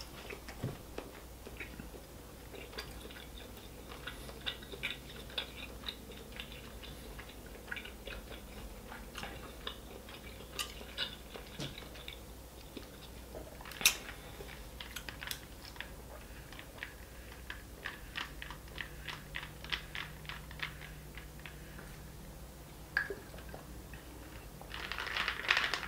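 Quiet, close-miked chewing with many small wet mouth clicks. Near the end comes a short hiss of sipping a drink through a straw-top bottle.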